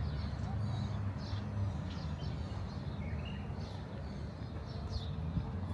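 Scattered short bird chirps from caged birds, over a steady low rumble.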